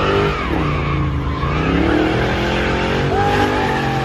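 A car engine revving and accelerating, its pitch dipping and climbing again several times.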